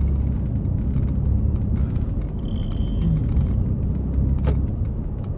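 Road and engine noise inside a moving vehicle's cabin: a steady low rumble, with a short high tone about two and a half seconds in and a sharp click near the end.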